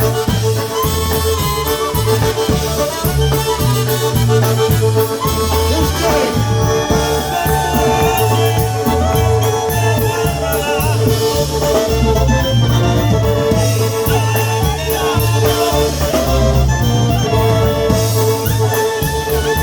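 Live polka band playing an instrumental passage of a Polish song, with a steady oom-pah bass and drum beat under the melody.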